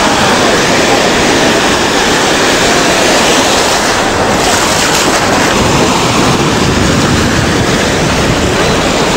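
Sea surf washing onto the shore in a loud, steady rush, with wind buffeting the microphone.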